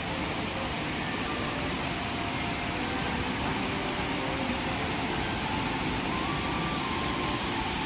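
Steady rushing roar of a waterfall's falling water, even and unbroken throughout.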